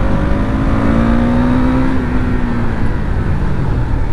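Motorcycle engine revving up, holding its pitch, then easing off about two and a half seconds in, on a ride.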